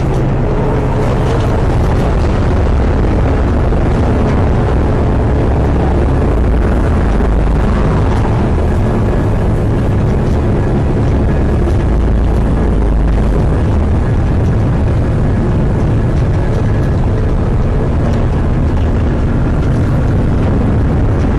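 Hurricane wind blasting against the microphone with driving rain, a loud, steady rush heaviest in the low rumble.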